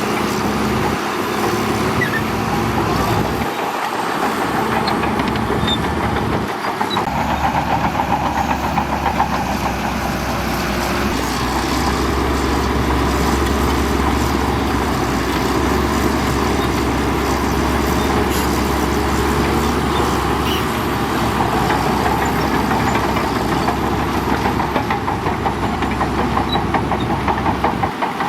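Heavy diesel earthmoving machinery running steadily under load, with a deeper engine rumble that sets in about seven seconds in and holds until near the end.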